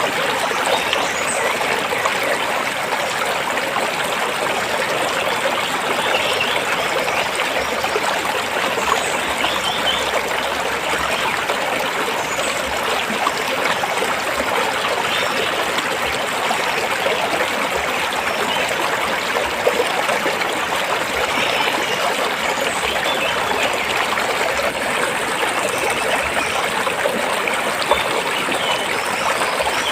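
A stream flowing and splashing steadily over rocks, with an even, unbroken rush of water.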